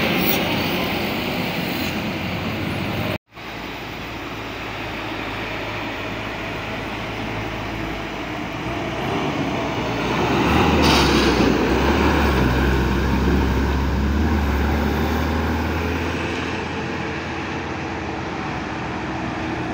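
Road traffic with a heavy vehicle's engine passing. Its low, steady engine hum grows louder about ten seconds in and fades over the next several seconds. The sound cuts out for an instant about three seconds in.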